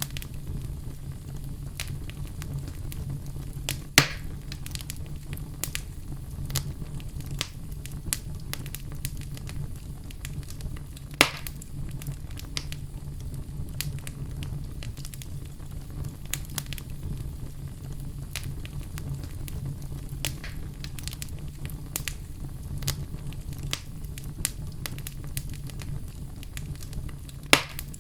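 Wood fire crackling in a fireplace: a continuous patter of small crackles over a low steady rumble, with three louder sharp pops.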